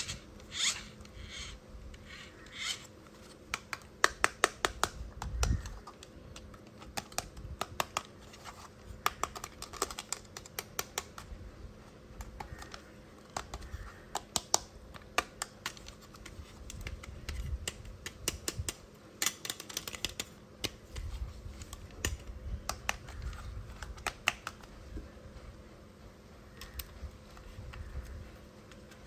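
Irregular run of sharp plastic clicks, taps and rattles with some rustling, like small hard plastic toy parts and packaging being handled; the clicks come in clusters rather than at an even rhythm.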